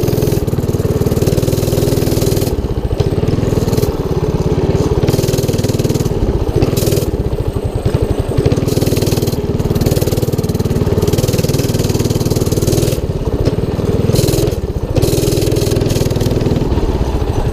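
212cc Motovox mini bike's single-cylinder four-stroke engine running as the bike is ridden, easing off briefly a few times before pulling again.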